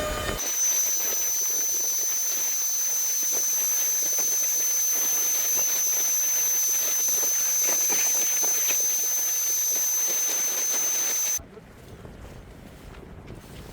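Loud rushing-air hiss with a steady high-pitched whistle over it, which cuts off suddenly about 11 seconds in, leaving quieter low wind noise.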